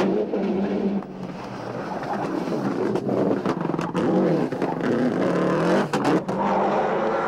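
Rally car engine heard from inside the car at full stage pace, revving up and down through the gears, with brief drops in sound at the changes and short cracks about a second in and again about six seconds in.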